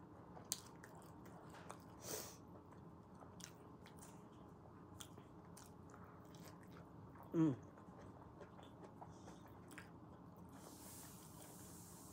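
A person chewing fries and a burger up close, with soft wet chewing and many small mouth clicks. One short vocal sound, falling in pitch, stands out about two-thirds of the way through.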